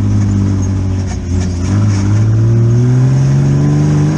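Custom tube-frame VW Baja Bug off-road buggy's engine running at a steady speed, then from about a second in rising steadily in pitch as it accelerates.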